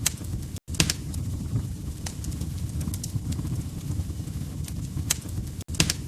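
Wood fire burning in a fireplace: a steady low rumble with sharp, irregular crackles and pops from the logs. The sound cuts out for an instant twice, once about half a second in and once near the end.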